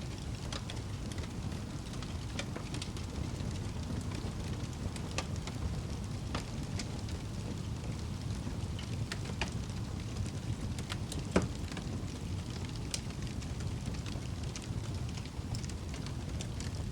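Wood fire burning in a fireplace: a steady low rumble with scattered crackles and one louder pop about eleven seconds in.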